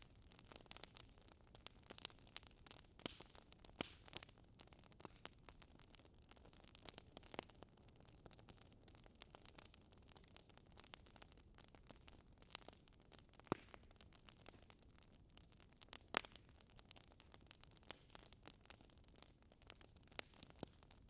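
Faint fireplace crackling: scattered sharp snaps and pops at irregular intervals, a few louder than the rest, over a low hiss.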